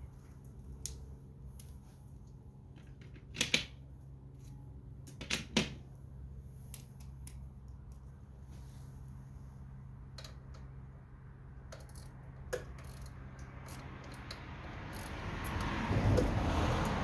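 Metal hand tools and parts clicking and clinking in the engine bay of a skid-steer loader while it is being taken apart, a few sharp clinks standing out. A steady low hum runs underneath and stops near the end, where a rush of noise swells and fades.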